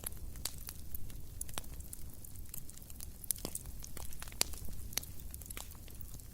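Wood campfire crackling: irregular sharp pops and snaps, several a second, over a low, steady rumble of burning.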